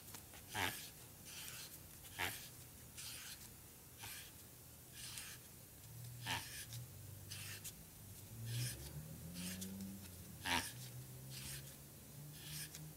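Abrasive hone rasping over a Harley panhead rocker arm part in short strokes, about one a second, with a low steady hum underneath. The hone is chattering a little from too much honing pressure.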